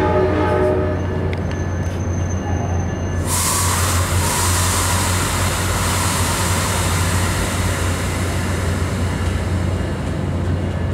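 Steady rumble of a VRE commuter train in motion, heard from on board, with a low drone under it. About three seconds in, a loud rush of hiss joins and carries on.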